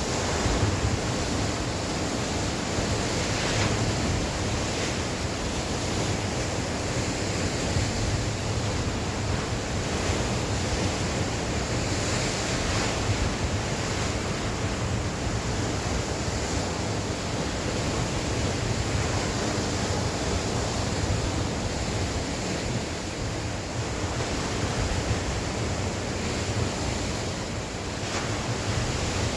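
Sea waves breaking and washing on the shore in a continuous surge, with wind buffeting the microphone as a low rumble.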